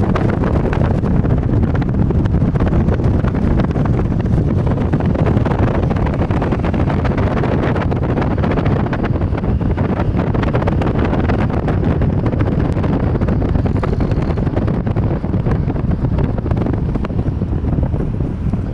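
A car driving, with wind buffeting the microphone: an even, low rumble of road and wind noise.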